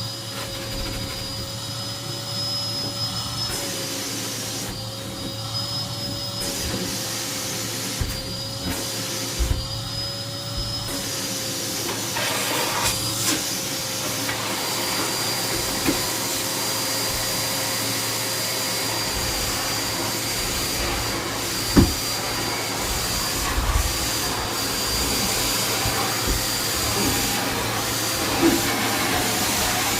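Henry vacuum cleaner running, a steady motor whine and suction hiss. Its pitch wavers slightly at first, then holds steady, with a few short knocks, the loudest about two-thirds of the way through.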